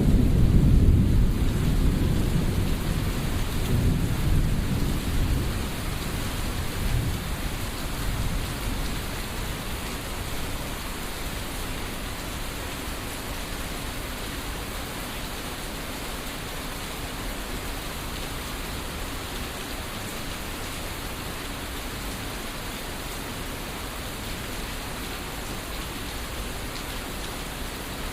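Thunderstorm: steady rain falling throughout, with a deep thunder rumble at the start that rolls away and fades over the first several seconds.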